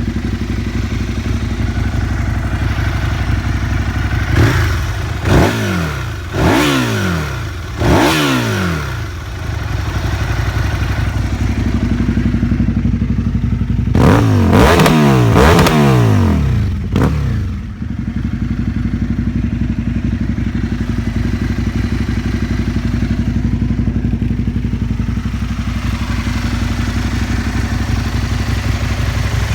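Aprilia SL 1000 Falco's V-twin engine with a full LeoVince SBK exhaust idling, blipped four times in quick succession about four to nine seconds in, then again in a quick run of blips around the middle, each time dropping back to a steady idle.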